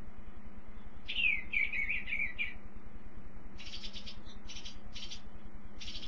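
A songbird singing: a falling, warbled phrase about a second in, followed by several clusters of quick high chirps.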